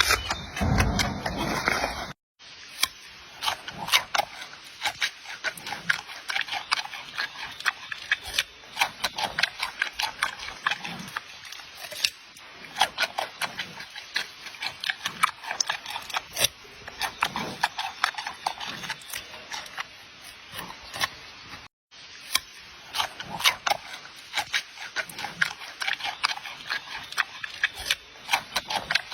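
Giant panda chewing food: a fast, irregular run of crisp crunches and snaps. It cuts out briefly twice, and the first two seconds are louder and deeper.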